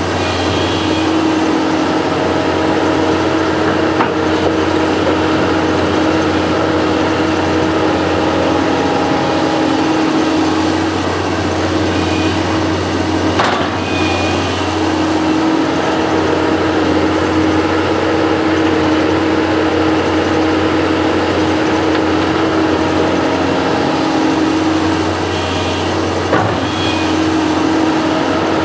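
Diesel engine of a construction machine running steadily under operation, its hum swelling and easing in stretches, with a couple of sharp knocks.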